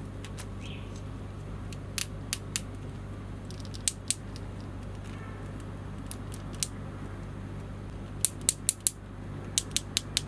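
Poseable Crimson Typhoon action figure being handled: sharp plastic clicks from its joints and parts, single at first, then in quick runs of four near the end, over a steady low hum.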